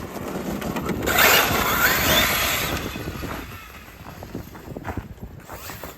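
Traxxas electric RC monster truck driving off: the motor whines up in pitch as it accelerates, with a rasping scrub of its tyres over the ground. It is loudest about a second or two in, then fades as the truck pulls away.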